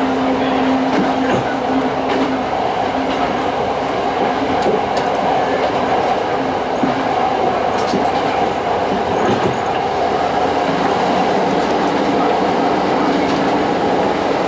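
Kyoto Tango Railway's Tango Kuromatsu diesel railcar running along the track: a steady engine drone with wheel-on-rail rumble. Scattered clicks from the wheels come at irregular spacing.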